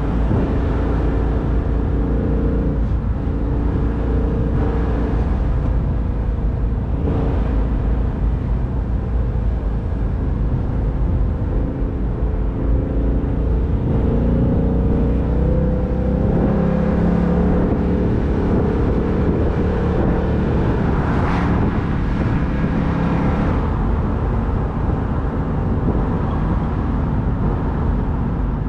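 2019 Ford Mustang GT convertible's 5.0-litre V8 cruising with the top down, a steady engine note under wind and road noise. The engine pitch rises a little about halfway through.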